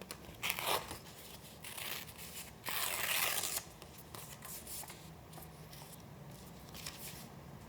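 Paper being torn in a few short rips, the longest and loudest about three seconds in, followed by fainter rustling of paper being handled.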